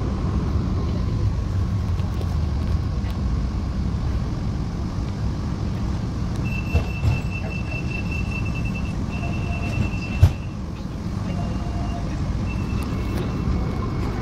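A public transport vehicle running with a steady low rumble. About six seconds in, a high steady tone sounds for about four seconds with a short break, a sharp knock comes about ten seconds in, and shorter high tones follow.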